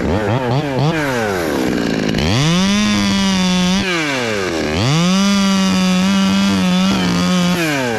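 Two-stroke chainsaw revved in quick blips, then held at full throttle twice, for about a second and a half and then about three seconds, dipping back in between. The steady high throttle is the saw cutting into very hard Australian pine (ironwood).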